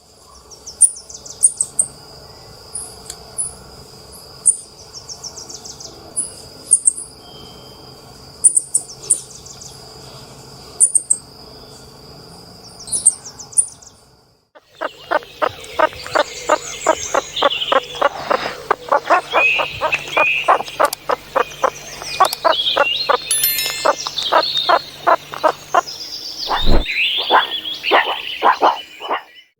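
Wildlife sounds in two parts. First, short high-pitched chirps repeat about once a second over a steady high whine. After a brief gap about 14 seconds in, a dense chorus of many birds calling takes over, with rapid pulsing calls beneath.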